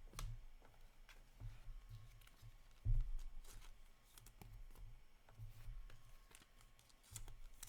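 Trading cards being handled and flipped through on a table, with faint clicks and slides of card on card, and one louder thump about three seconds in.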